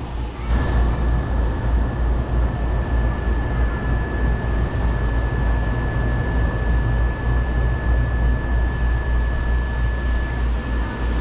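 Elevated metro train running: a steady low rumble with a thin, steady high whine over it.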